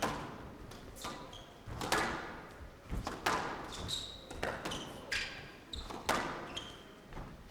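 Squash rally: the ball struck by rackets and smacking off the court walls about once a second, each hit ringing in a large hall, with short high shoe squeaks on the court floor between shots.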